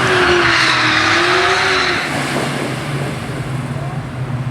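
Drag-racing cars' engines at full throttle down the strip, the engine note wavering up and down through gear changes, then fading over about two seconds into a quieter, steady low drone as the cars pull away.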